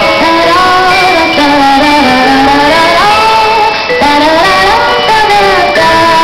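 Live music: a woman singing a gliding melody over sustained accompaniment, loud and steady throughout.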